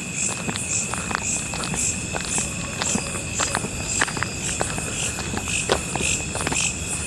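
A chorus of crickets and other insects: a steady high-pitched trill, with a higher chirp pulsing about twice a second above it. Short clicks and crunches are scattered throughout.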